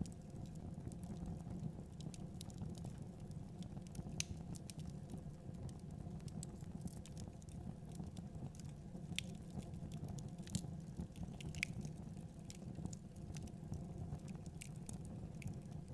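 Wood fire in a fireplace crackling: a steady low rumble of flames with scattered sharp pops and snaps, a few louder ones in the middle.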